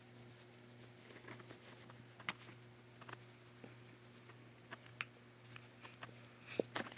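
Faint, scattered soft taps and rustles at irregular spacing, from a cat play-attacking and biting at a person.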